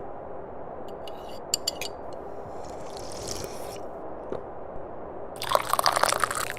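Tea being sipped from a cup, heard as a looping sound effect. A few small clicks come about a second in, then a short wet hiss, and a louder, crackly sip starts about five seconds in, all over a steady low hum.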